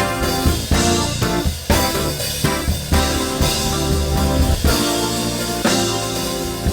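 Church band playing instrumental worship music, with drum kit, bass and guitar.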